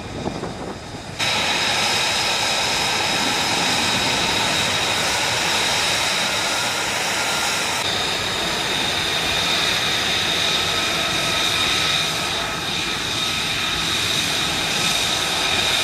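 F-35B Lightning II jet engine running loud: a steady rush with high-pitched whine tones on top, cutting in suddenly about a second in after a quieter stretch.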